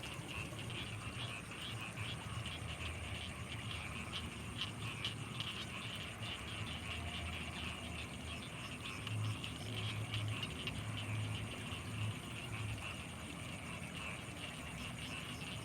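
Night chorus of frogs calling from rice fields in a dense, rapid clicking pattern, with a steady high insect trill above it. A low hum swells for a few seconds near the middle.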